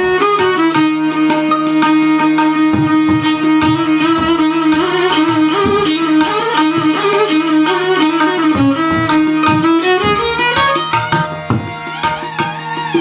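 Hindustani classical violin playing a slow, ornamented melody with long held notes, accompanied by tabla over a steady drone. Near the end the violin thins and the tabla comes forward.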